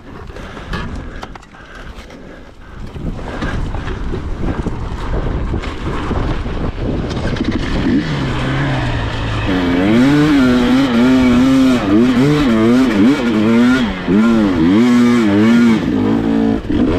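Dirt bike engine running and getting louder, then from about halfway through being revved up and down over and over, its pitch rising and falling.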